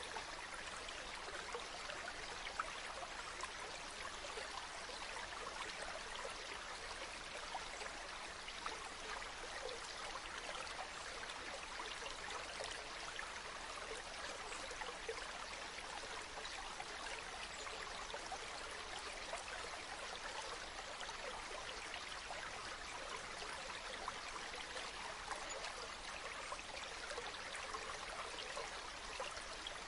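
Water from a natural spring running and falling steadily, a continuous trickling splash with many small droplet ticks.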